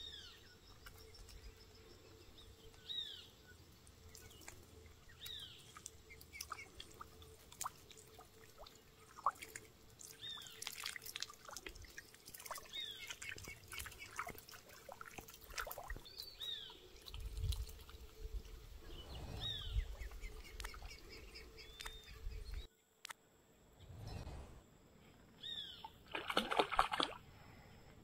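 A bird repeating a short, high, falling call every two to three seconds, over trickling and splashing water and scattered clicks. A louder burst of noise comes near the end.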